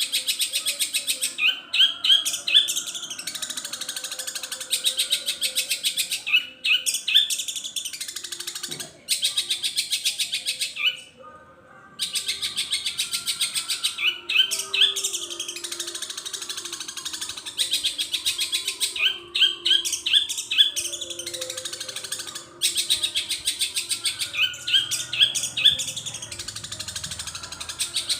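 Long-tailed shrike (cendet) singing a long, very fast chattering song packed with mimicked calls of other birds, with repeated runs of short rising notes and a few brief pauses.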